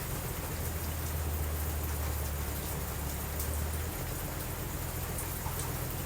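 Steady rain falling, with a low rumble underneath that grows stronger for a few seconds in the middle.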